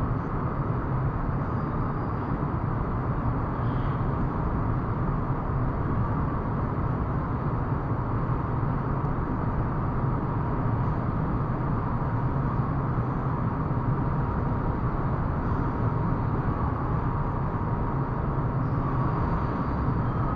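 Motor scooter riding steadily: an even engine hum under continuous road and wind noise.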